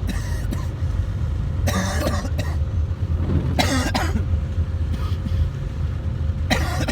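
A person coughing in three short fits over the steady low rumble of a car driving.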